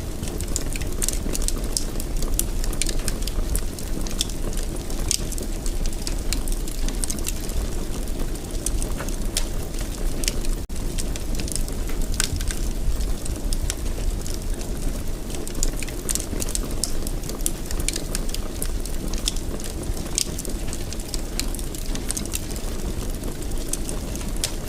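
Fire burning in a fireplace: a steady low rumble of flames with frequent sharp crackles and pops. The sound drops out for an instant about eleven seconds in.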